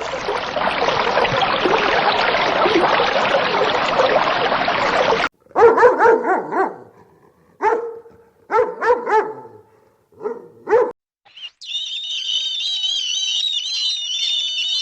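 A dog barking and yipping, about five short calls over some five seconds. Before it comes a dense, even noise, and after it a high, warbling chirping.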